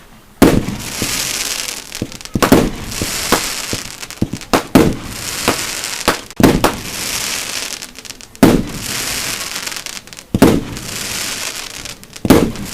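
Aerial firework shells bursting at a fireworks display: a loud bang about every two seconds, eight in all, each followed by about a second of hiss.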